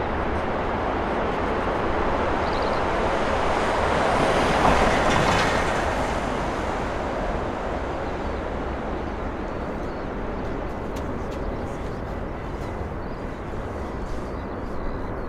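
A large vehicle passing by with a loud, even rushing rumble that swells to a peak about five seconds in and then slowly fades.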